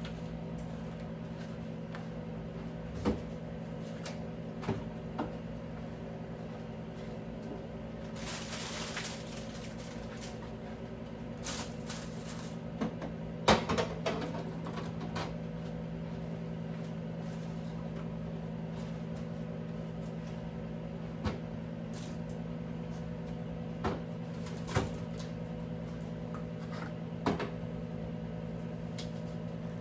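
Scattered knocks and clunks of things being handled and set down, about a dozen spread irregularly, the loudest around 13 to 14 seconds in, over a steady hum. A brief hiss lasts about a second, starting a little after 8 seconds in.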